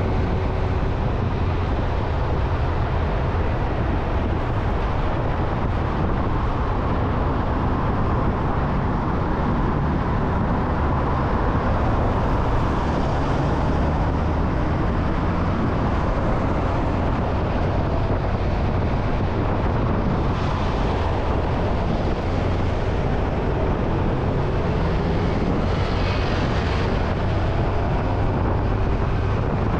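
Motorcycle engine running steadily at cruising speed, a constant low drone with no sharp changes in level.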